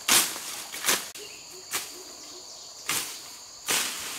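Steady high insect drone running under about five short, sharp swishing strokes, roughly one a second.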